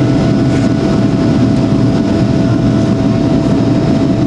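Steady cabin noise inside a Boeing 737-800 airliner in flight: the low, even rush of airflow and its CFM56 turbofan engines, with a faint constant tone above it.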